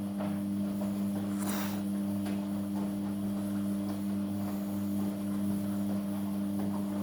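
Amica washing machine's drain pump humming steadily, pumping out the wash water, with a brief swish of water about a second and a half in.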